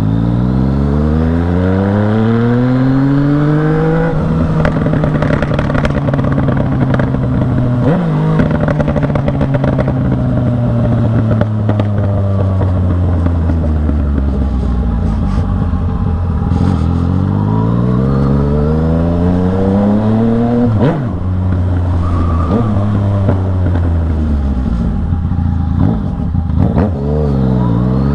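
Yamaha MT-09 three-cylinder motorcycle engine pulling hard under load: the revs climb for about four seconds, hold and slowly fall, then climb and drop again several times as the throttle is opened and closed, loud throughout. A few sharp pops cut through, around eight seconds in and again about twenty seconds in.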